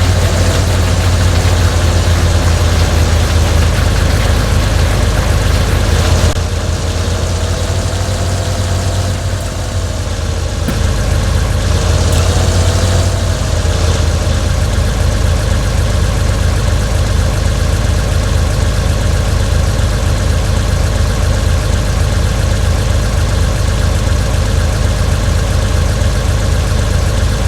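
An engine running steadily with a low hum. Its pitch wavers briefly around the middle, then settles again.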